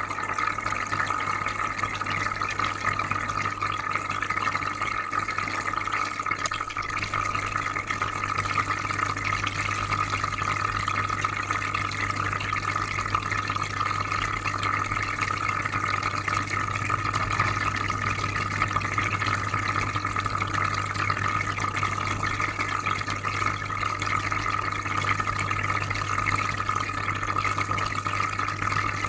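Aquarium filter running: constant bubbling, trickling water over a steady low hum, unchanging throughout.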